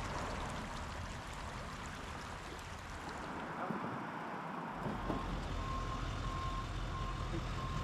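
A heavy vehicle's engine rumbles in about five seconds in, and its reversing alarm starts beeping at a steady pace, about three beeps every two seconds. A steady rushing noise sits underneath.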